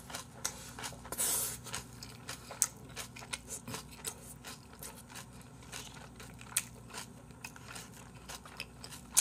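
Close-miked chewing of a large mouthful of kimchi-wrapped bossam, with many short crunches, clicks and crackles. A louder, longer crunch comes about a second in.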